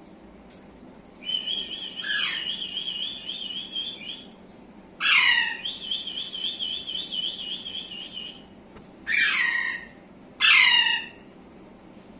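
A pet parrot whistling a warbling, rapidly wavering trill twice, each about three seconds long. Between and after the trills come three loud short squawks that fall in pitch.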